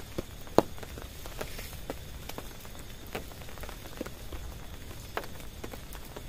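Raindrops striking a tent in separate, irregular hits over a low steady hiss of rain, with one sharper, louder drop about half a second in.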